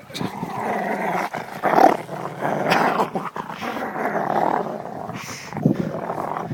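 Dog growling steadily in rough play, with louder surges about two and three seconds in.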